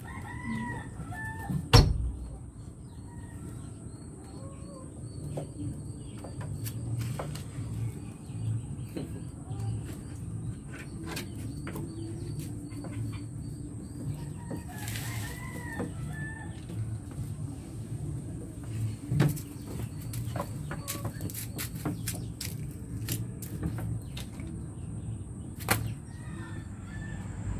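Short bird calls now and then, over a steady low hum and scattered sharp clicks and knocks.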